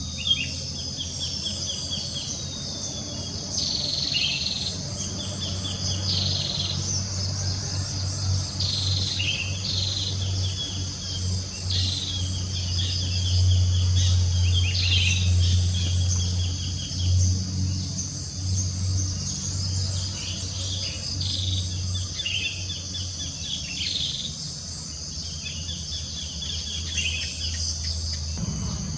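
Wild birds calling with short chirping phrases and a few descending whistles, repeated every second or two, over a steady high chorus of crickets. A low, steady rumble runs underneath and swells in the middle.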